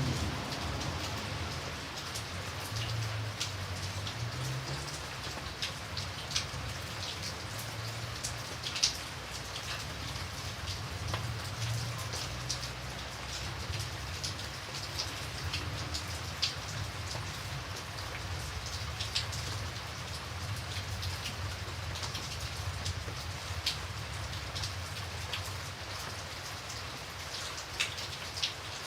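Steady rain falling, with individual drops striking close by as scattered sharp ticks over an even hiss.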